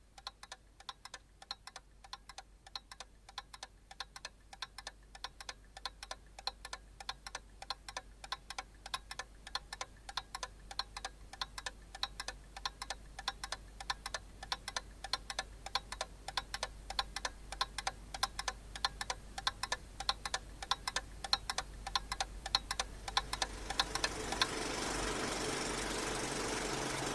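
Rapid, evenly spaced ticking, like a clock, that grows gradually louder. About 24 seconds in, a steady noisy hum with a few held tones swells in beneath it.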